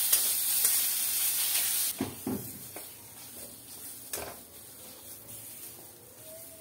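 Khoya sizzling as it roasts in a metal kadhai while a metal spatula stirs it; the sizzle cuts off suddenly about two seconds in, leaving quieter scraping and a few knocks of the spatula against the pan.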